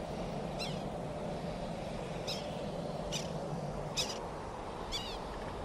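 A series of six short, high, falling chirps, roughly one a second, over a steady low rushing background like running river water.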